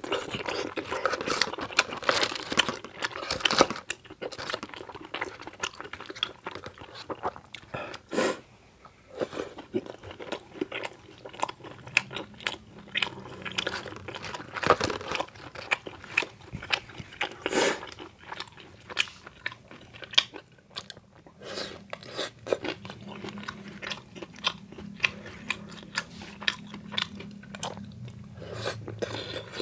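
Close-miked person chewing and biting into deep-fried snacks and chewy rice cakes in spicy sauce: crunching and wet, sticky mouth clicks, densest in the first few seconds, with a few sharp loud clicks scattered through.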